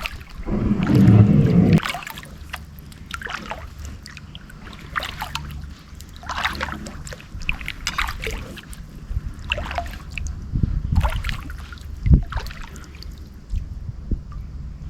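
Kayak paddle strokes in shallow water: irregular splashes and drips from the blade, with a loud low rumble in the first two seconds and a single sharp knock about twelve seconds in.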